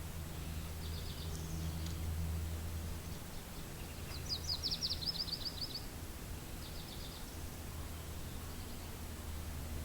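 Steady low wind noise with a small songbird singing over it: a short trill of rapid high notes about a second in, a longer and louder trill about four seconds in, and another short trill near seven seconds.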